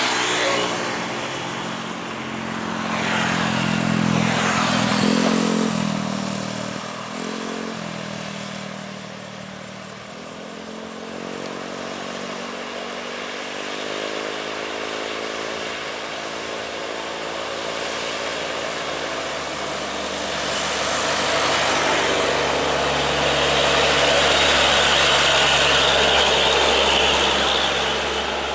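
Heavy trucks' diesel engines passing on a hill climb, one after another, their note rising and falling as they go by. The loudest vehicle passes in the last third.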